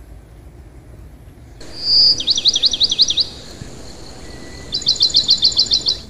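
A songbird calling: a short high whistle about two seconds in, then a quick run of sharp repeated chirps, about eight a second, and a second, similar run near the end.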